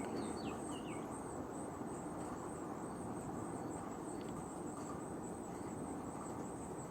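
Crickets chirping steadily at a high pitch over a steady outdoor background hiss, with a few faint short chirps in the first second.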